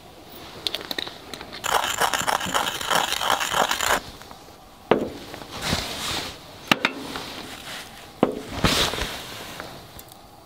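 A rapid rasping scrape lasting about two seconds, then three sharp knocks, each trailed by a briefer scraping rasp.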